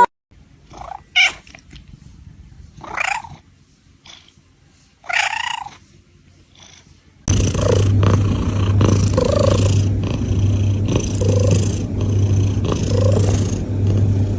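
A few short animal calls. Then a cat purring loudly and steadily, close up, swelling and fading about once a second with its breathing.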